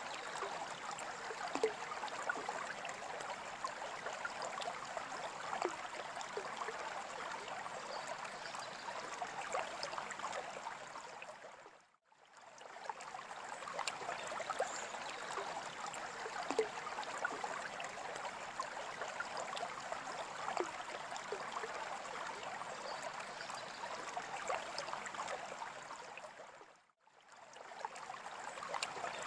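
Water trickling and bubbling steadily, with many small splashy droplets. It fades briefly to silence and back twice, about 12 and 27 seconds in.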